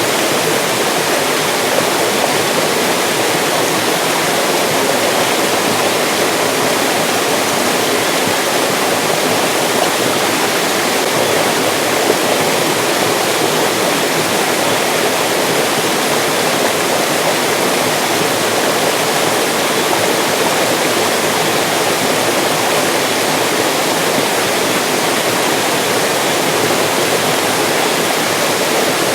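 Mountain stream rushing and splashing over rocks, a steady, loud, unbroken water noise.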